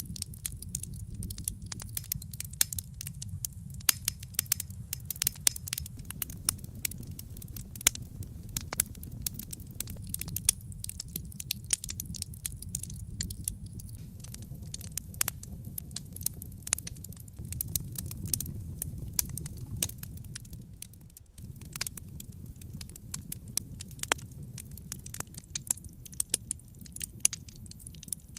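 Wood fire crackling, with frequent sharp pops and snaps over a low, steady rumble of flames. There is a brief lull a little past the middle.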